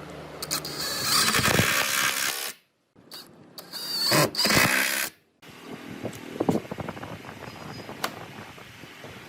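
Woodworking shop power tools running in short edited clips, each ending in an abrupt cut to dead silence, followed by quieter shop noise with scattered clicks and knocks.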